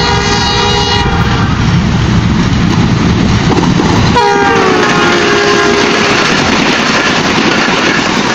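Pakistan Railways passenger train running along the track with steady wheel rumble and clatter. A train horn sounds at the start and stops about a second in. About four seconds in, a second horn blast starts, drops in pitch, then holds for about two seconds.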